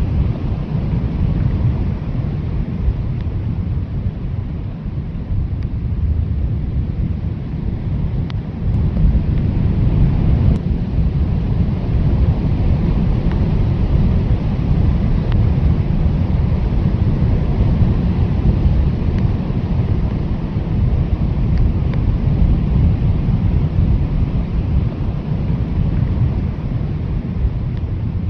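Strong blizzard wind blowing without a break, a steady deep rush with no pauses.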